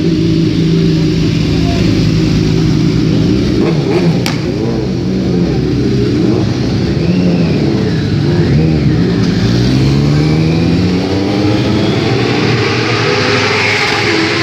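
Superbike engines revving, the pitch rising and falling again and again over a steady running engine note.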